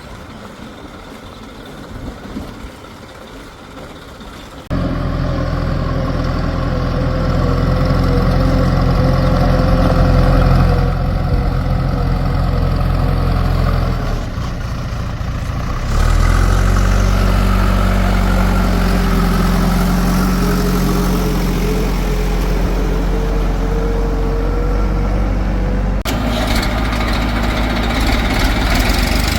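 Heavy vehicle engine running steadily, starting abruptly about five seconds in after a quieter stretch, with sudden changes in pitch and level a few times along the way.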